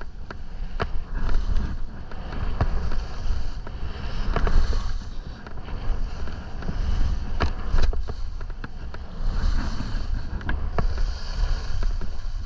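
Skis hissing and scraping through snow over moguls, with wind rumbling on the microphone and frequent sharp, irregular clicks and knocks.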